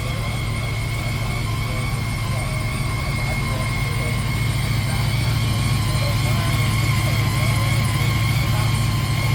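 A vehicle engine running steadily, a loud low drone with a steady high whine over it, getting a little louder about halfway through.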